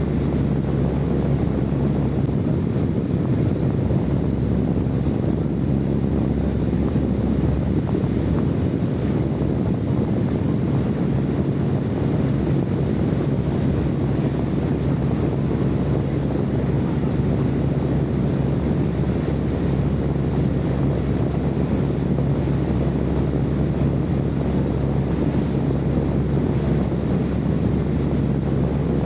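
Steady, unchanging low rumbling noise with a faint steady hum running through it.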